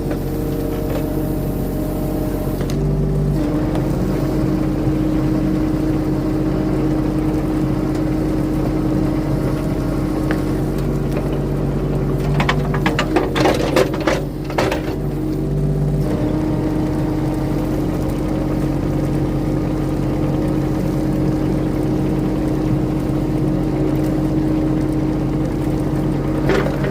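Mini excavator's engine running steadily, its note shifting under hydraulic load as a tree is shaken to knock mud off the roots. A short burst of clanks and rattles comes about halfway through.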